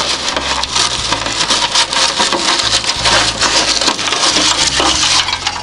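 Dry twigs and grass of a bird's nest crackling and snapping as the nest is pulled out of a mailbox by hand, a dense run of quick crackles.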